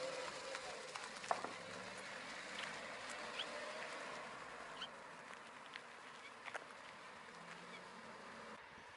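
A Volkswagen Golf's 1.4 TSI turbocharged four-cylinder petrol engine pulls away and fades steadily into the distance, its note rising and falling slightly as it goes. A few short, faint high chirps and ticks sound over it.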